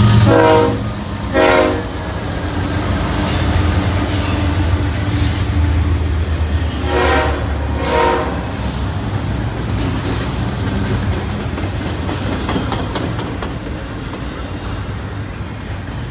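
Freight train passing close by: the diesel rumble of the BNSF locomotives fades about a second in, and the rolling of loaded double-stack container cars carries on steadily. Short train horn blasts sound twice in quick succession near the start, and twice more about seven seconds in.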